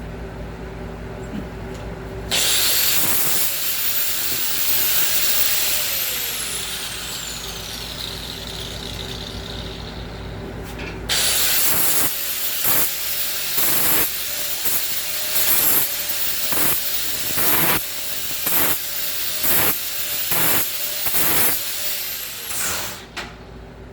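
Handheld grinder deburring the cut edges of steel angle iron. About two seconds in it spins up, runs for a few seconds and winds down. It starts again about halfway through and grinds in about a dozen short surges roughly a second apart, then winds down near the end.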